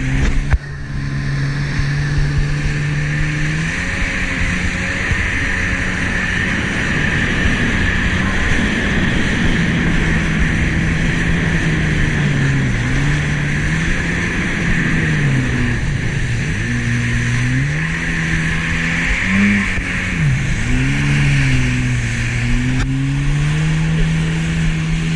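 Jet ski engine running under way, its pitch dipping and climbing back several times as the throttle is eased off and opened up again, over a steady rushing noise.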